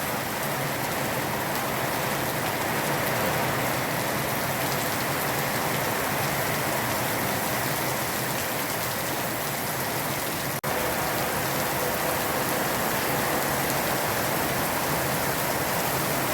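Heavy rain pouring down in a dense, steady hiss. The sound drops out for an instant about ten seconds in.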